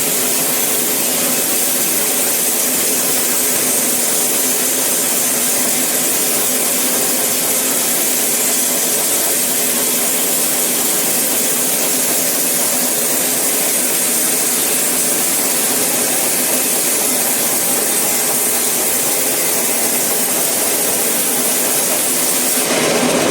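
Sawmill saw cutting through eucalyptus wood: a loud, steady hiss of the blade in the wood with a faint machine hum beneath, unbroken throughout.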